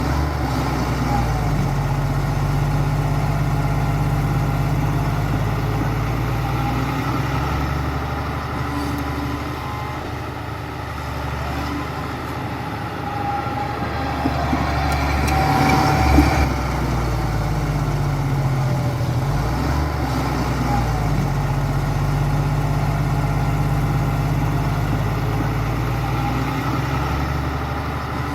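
Heavy diesel construction machine's engine running steadily, its revs stepping up and down several times as it works, with a brief sharper knock about halfway through.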